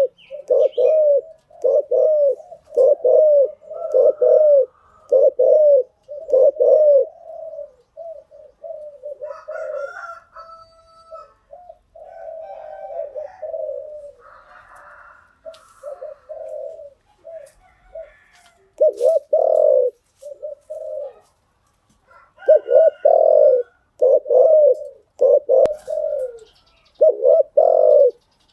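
Spotted dove cooing: loud repeated low coos in quick phrases, easing into softer, fainter calling in the middle before the loud coo phrases return.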